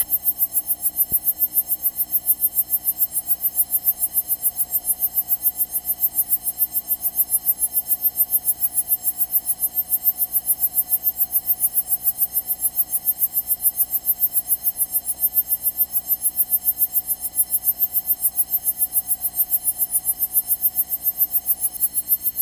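Steady electrical buzz in the Cessna 172's cockpit intercom audio, made of many evenly spaced tones and pulsing evenly at about five times a second.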